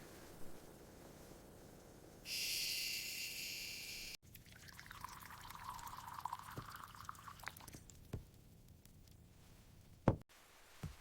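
Liquid poured into a cup, a gurgling pour lasting about three seconds. Before it comes about two seconds of steady high hiss, and a single knock near the end.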